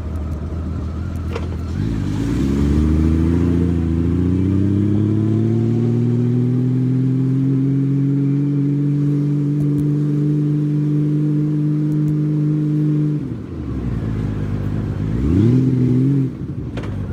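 Honda Valkyrie motorcycle's flat-six engine pulling away about two seconds in, the revs climbing and then holding steady. Near the end the revs drop and climb again twice, as the rider eases off and shifts. Wind and road noise run underneath.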